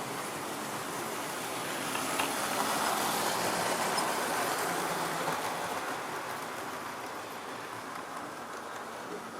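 Model railway train running along its track: a steady wheel-on-rail rumble that grows louder about two seconds in, as the train passes close by, then slowly fades.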